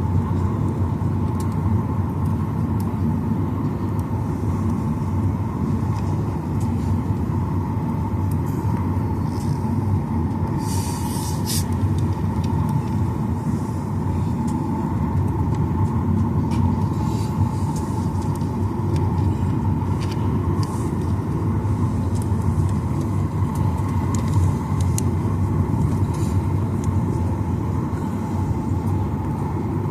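Cabin noise of a Boeing 737-900ER on the ground before takeoff: a steady low rumble of its CFM56 engines at low power and the airflow through the cabin. A brief hiss comes about eleven seconds in.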